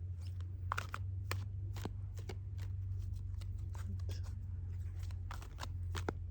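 Scattered, irregular light clicks and rustling over a steady low hum.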